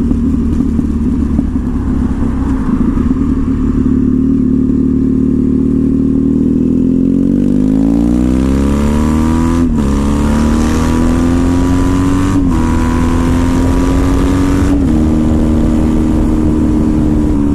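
2014 Triumph Thruxton's parallel-twin engine through a British Customs slash-cut TT exhaust, running steadily at first, then pulling away: the revs rise and drop back with three upshifts in the second half, then hold steady.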